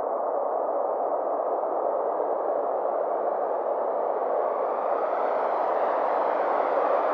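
Synthesized space-themed ambient drone: a steady rushing noise. Its top end slowly sweeps higher over several seconds, with faint gliding tones.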